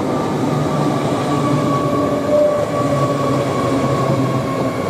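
Five-car Class 800 Azuma train pulling into the platform: a steady rumble of wheels on rail with several steady tones from its traction equipment held over it.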